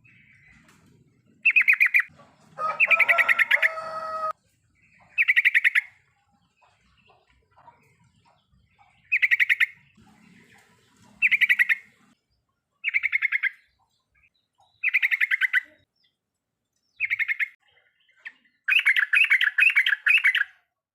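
Yellow-vented bulbul (trucukan) giving its chattering 'riwikan' calls: short bursts of rapid notes, repeated every second or two. About three seconds in, one burst has a steady lower tone under it, and the last burst near the end runs longer.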